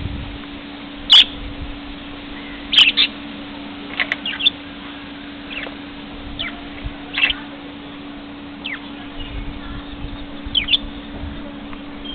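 Pet lovebirds giving short, sharp chirps, each falling slightly in pitch, scattered irregularly, with the loudest about a second in. A steady low hum runs underneath.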